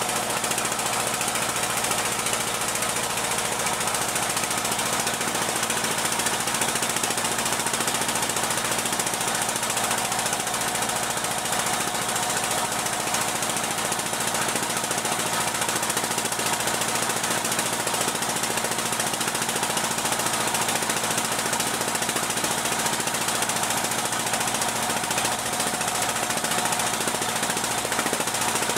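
Motorboat engine running steadily at constant speed, with a steady high hiss over it.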